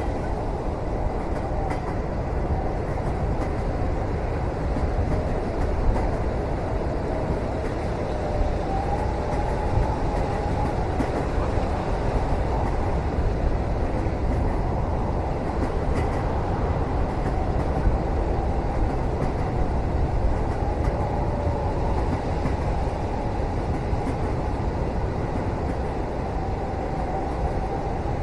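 Steady rumble of a moving train heard from inside a passenger cabin, with a faint wavering whine drifting in and out above it.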